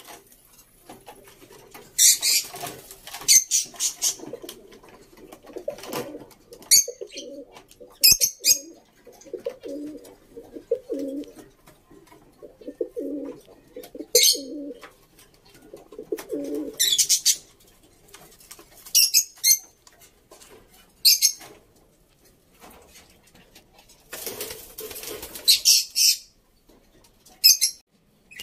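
Birds calling: a run of low repeated notes through the first half, mixed with short, sharp, very high-pitched calls every few seconds, the high calls being the loudest sounds.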